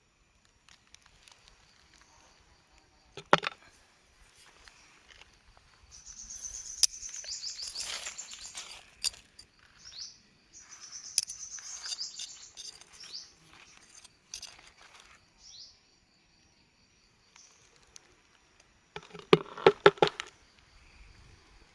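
Bird chirping in two bouts of rapid, high, falling notes over a faint steady insect trill, with a sharp knock a few seconds in and a brief cluster of rustling clicks near the end.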